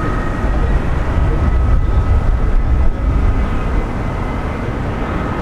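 Boeing 737-800's jet engines running: a steady low rumble under a high, steady whine.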